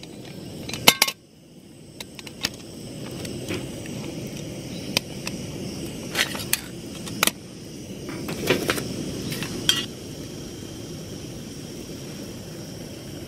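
Metal cooking gear clinking and knocking, a dozen or so sharp clinks, over a steady rushing noise that builds up about a second in and cuts off at the end.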